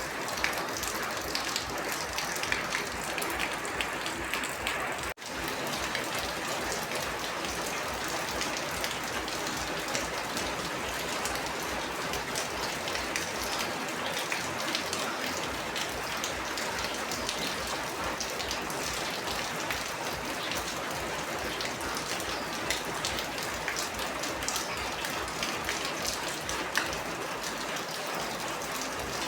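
Steady rain, a dense even hiss dotted with many separate drops ticking. It breaks off for an instant about five seconds in.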